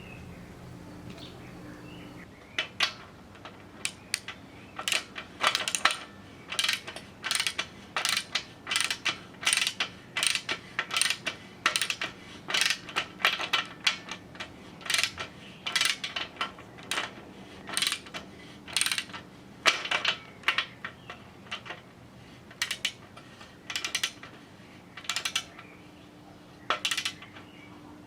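Bicycle parts and tools at work: irregular clusters of sharp metallic clicks and short ratcheting runs, starting a couple of seconds in and stopping near the end.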